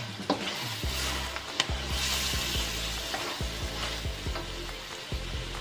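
Seafood and vegetables being stir-fried in a steel wok: oil sizzling while a spatula tosses the pieces and scrapes and knocks against the metal, with a sharp knock about one and a half seconds in.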